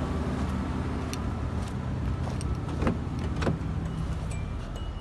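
2004 Hyundai Santa Fe's 3.5-litre V6 idling steadily, with a few light clicks over it; the seller calls it an excellent runner.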